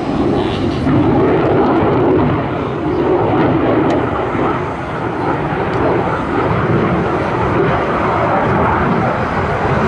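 Fixed-wing aircraft flying, its engine noise a loud, steady rush that swells and eases slightly.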